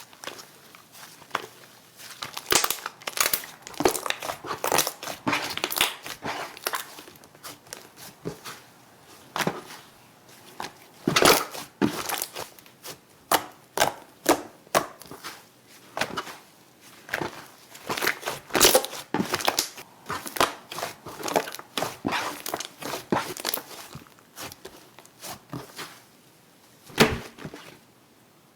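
Slime being squeezed and pressed by hand close to the microphone, with clusters of crackling and popping, repeated every second or so.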